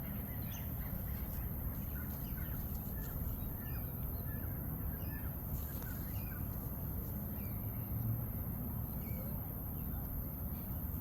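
Birds calling with many short, scattered chirps over a steady low background rumble.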